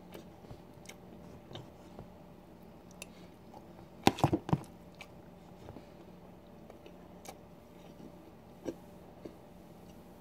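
Close-miked chewing and wet mouth sounds of someone eating goulash of macaroni, rice, chicken and vegetables in tomato sauce, with small scattered clicks. About four seconds in there is a brief cluster of loud, sharp clicks.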